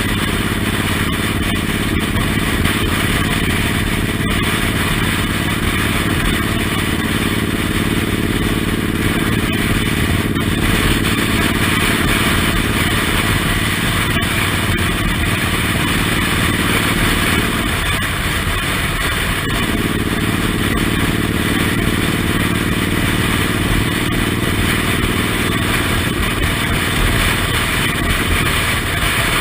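Suzuki Intruder M1800R's big V-twin engine running steadily under way, heard from the pillion seat. The engine note dips briefly about two-thirds of the way through, then picks up again.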